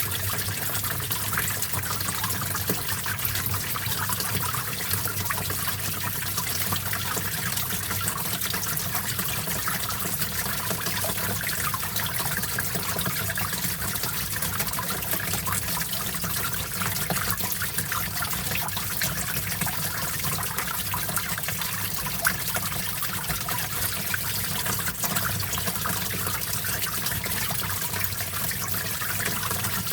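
Small stream of water trickling and babbling over rocks, a steady, even flow of splashing.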